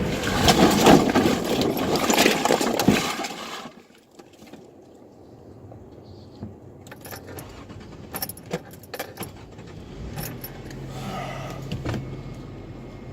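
Pickup truck going off an icy road into the ditch, heard from inside the cab: loud rumbling with several bangs for about four seconds, stopping suddenly. Then scattered clinks and rattles, and the engine running low near the end.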